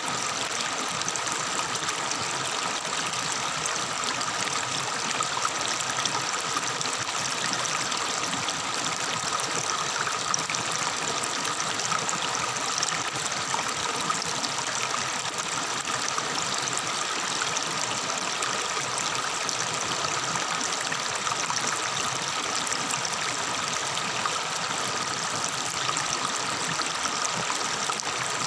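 Water of a tropical forest river babbling and trickling over rocks, a steady, even rush.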